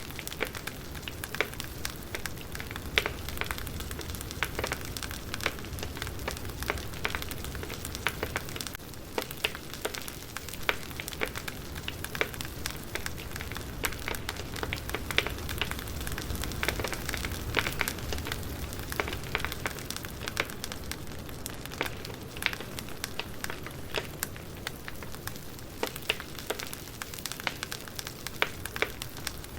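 Wood fire crackling: a steady low hiss and rumble of burning logs with frequent, irregular sharp pops and snaps.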